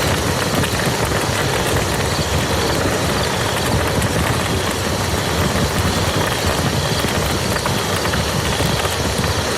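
Steady rain falling on a muddy field: a dense, even hiss of drops with fine ticks of single drops and a low rumble underneath.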